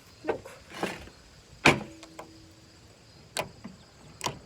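Homemade slime being squished and popped by hand: five short, sharp pops, the loudest about a second and a half in.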